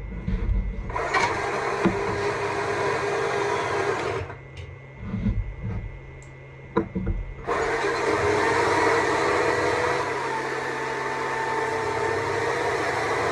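Stihl MSA 200 C battery chainsaw running and cutting wood. The trigger is let off briefly near the start and again for about three seconds from four seconds in, with a few low knocks during the pauses.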